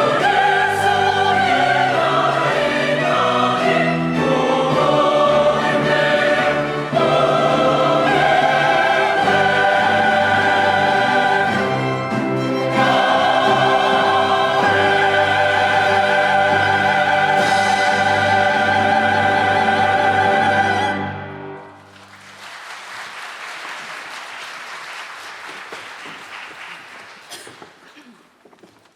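Church choir singing with orchestral accompaniment, ending on a held final chord about 21 seconds in. Applause follows and fades out over the last several seconds.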